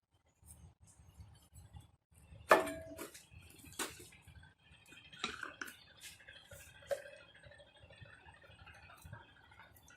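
Metal parts being handled and knocked together: a sharp clank about two and a half seconds in that rings briefly, scattered clicks and knocks after it, and a second short ringing clink near seven seconds.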